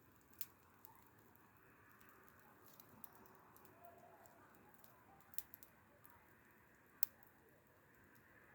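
Faint crackling of a wood fire: scattered sharp pops over a soft hiss, with one louder pop about seven seconds in.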